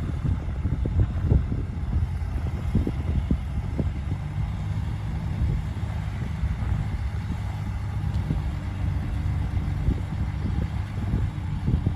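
Komatsu D58P crawler bulldozer's diesel engine running steadily, with irregular knocks and clanks over it.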